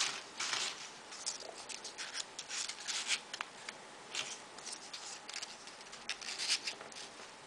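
Folded paper origami units rustling and crinkling as they are handled and slotted together, in short irregular bursts.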